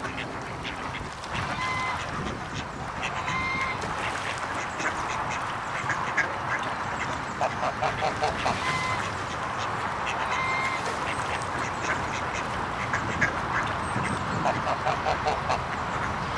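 Birds calling: short pitched calls repeat over a busy background, with a quick run of about five calls near the middle and again near the end.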